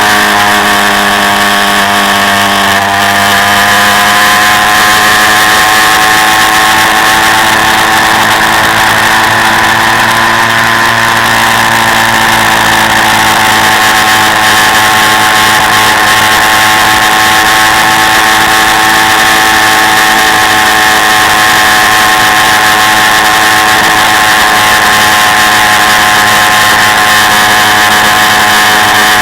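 Quad bike engine running under steady throttle, its pitch dipping briefly a few seconds in, then holding nearly constant.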